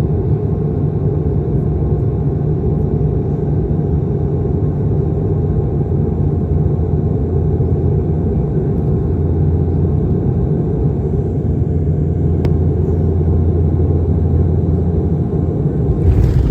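Steady, loud low rumble of a moving vehicle, with a faint steady hum above it.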